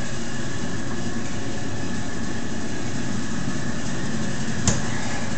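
A steady machine hum with a thin high whine held through it, and one sharp click near the end.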